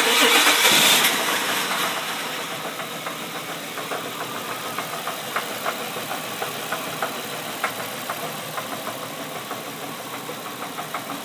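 Nissan Maxima's 3.5-litre VQ35DE V6 starting up by remote start, running loudest for about a second and then settling into idle with a repeated knock, which the owner traces to the number 3 cylinder.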